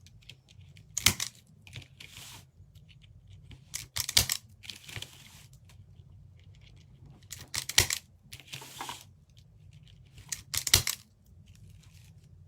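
Deco mesh being handled and worked into a wreath form: four sharp clicks about three seconds apart, each followed by a short crinkly rustle.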